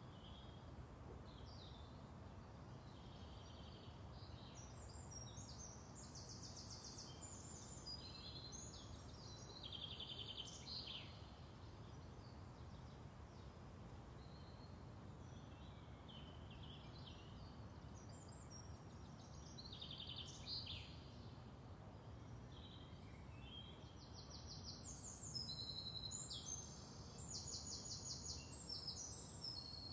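Faint outdoor ambience of birdsong: small birds chirping and trilling on and off, busiest in two spells, over a low steady background hum.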